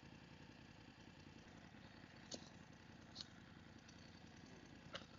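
Motorcycle engine idling faintly, a steady low rumble, with two small clicks a little after two and three seconds in.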